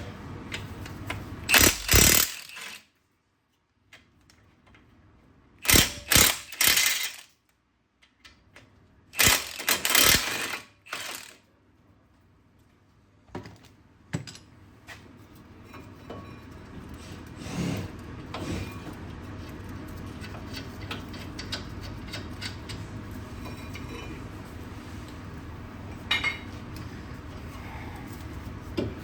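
Three short spells of loud mechanical rattling from a tool working a bolt on a VW Golf's front brake assembly, within the first dozen seconds. After that comes quieter steady workshop noise with a few scattered clicks.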